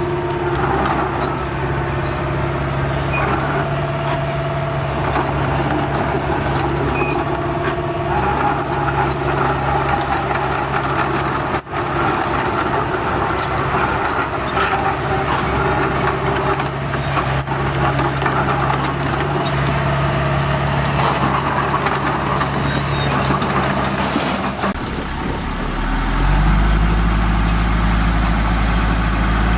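Heavy diesel engine of earthmoving machinery running steadily. About 25 seconds in, the sound changes to a deeper, louder engine note.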